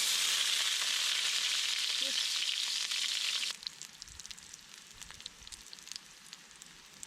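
Food sizzling loudly in a hot skillet, a strong frying hiss that drops abruptly about three and a half seconds in to a quieter sizzle with small crackles.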